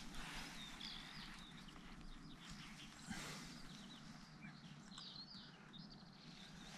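Faint songbird chirps, a few short calls about a second in and again around five seconds in, over quiet woodland background, with one brief soft rustle about three seconds in.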